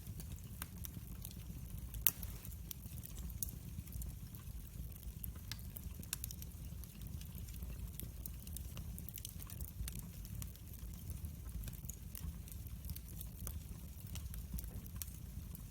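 Wood fire burning in a fireplace: a steady low rumble of flame with frequent sharp crackles and pops, one louder pop about two seconds in.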